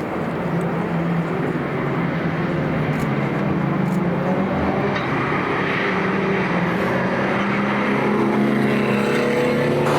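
Racing car engines running at full throttle as cars pass, the engine note climbing in pitch near the end as they accelerate.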